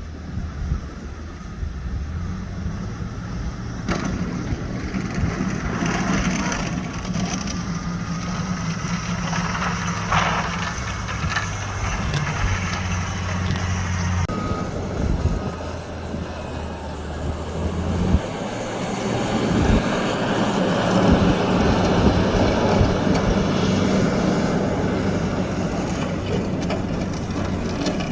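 A motor vehicle running, with a steady low engine drone under a constant rushing noise.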